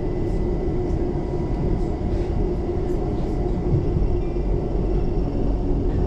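Interior of a London Overground Class 378 electric train in motion: a steady low rumble from wheels and track, with an even electric motor hum over it.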